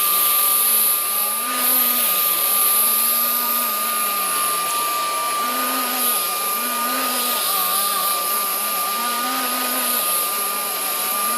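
Hoover vacuum cleaner running, with a steady high motor whine over the rush of air. A low hum rises and falls in pitch every second or so. The owner says the machine is clogged.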